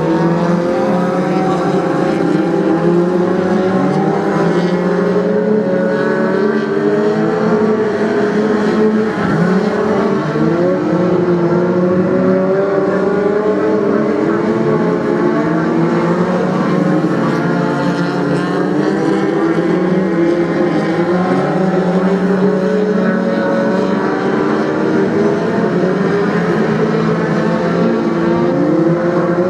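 Several BriSCA F2 stock car engines racing around an oval, overlapping and continually revving up and falling back as the cars lap.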